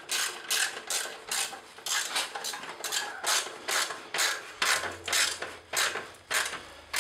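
Hand ratchet driving a T45 Torx bit to tighten the slip-on exhaust's band clamp. It clicks in short, even bursts, about two to three a second.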